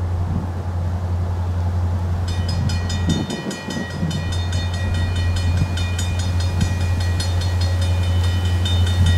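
Low steady rumble of a train, with a bell starting to ring in quick, even strokes about two seconds in and carrying on over it.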